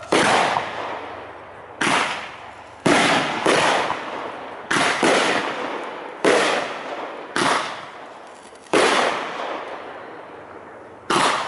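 Aerial fireworks shells bursting one after another, about nine sharp reports spaced a second or two apart. Each report is followed by a rolling echo that dies away before the next.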